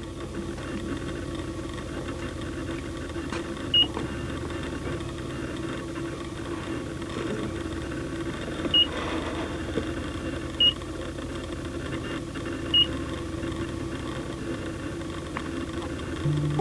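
Steady electrical hum and hiss with a low held tone, broken by four short high-pitched beeps a few seconds apart.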